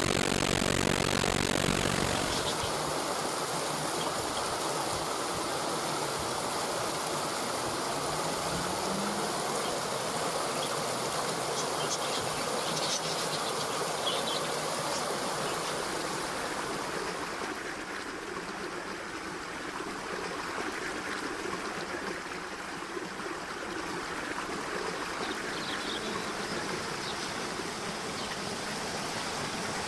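Steady outdoor ambience: an even rushing hiss, louder for the first couple of seconds, with a few faint, brief high chirps in the middle and near the end.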